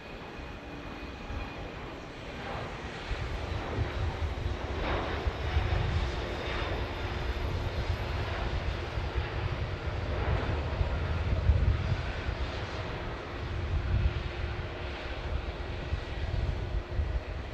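Jet airliner's engines rumbling as it passes, growing louder a few seconds in and easing slightly near the end.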